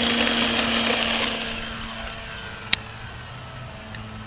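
Electric motor and propeller of a Parkzone T-28 RC plane running under power, a steady whine that is loudest for the first second and a half and then fades away but keeps going. A single sharp click about two and three-quarter seconds in.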